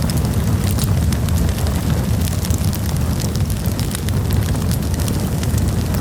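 Wood campfire burning with frequent sharp crackles and pops over a steady low rumble.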